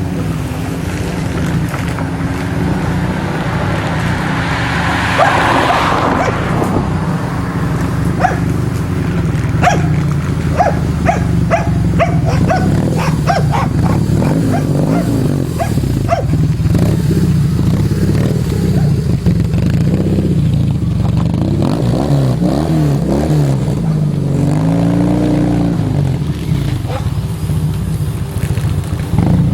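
BMW R1200C's boxer twin running steadily at idle through an Edhaust aftermarket exhaust, with a dog barking repeatedly over it.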